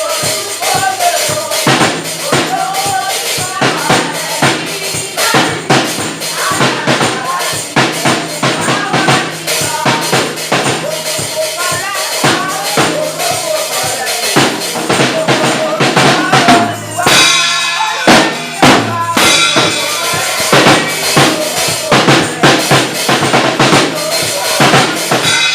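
Live praise-and-worship music: a drum kit, with bass drum and snare, keeping a steady beat under voices singing.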